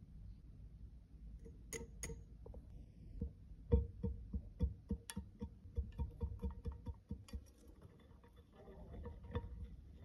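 A run of small, quick taps and clicks of hand tools on a makeup compact during repair of broken makeup, with two sharper clicks first and the densest tapping a few seconds in.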